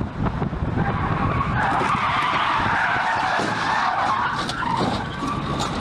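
Car tyres skidding on the road, a rough screech that starts about a second in and dies away near the end, over the rumble of the moving vehicle.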